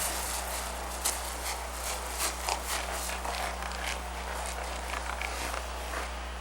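Footsteps, about two a second, fading out about five and a half seconds in, over a steady electrical mains hum.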